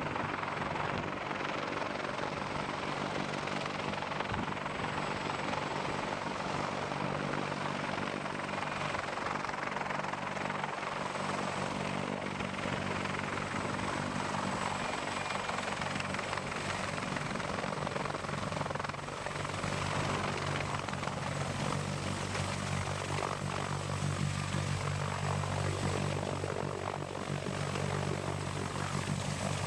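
Heavy-lift helicopter running: a steady, unbroken rush of turbine and rotor noise with a low, even hum beneath it.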